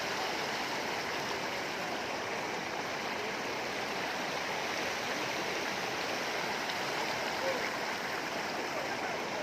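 Water swirling down through the Rain Oculus, a large acrylic bowl fountain that drains as a whirlpool, making a steady rushing sound like a waterfall.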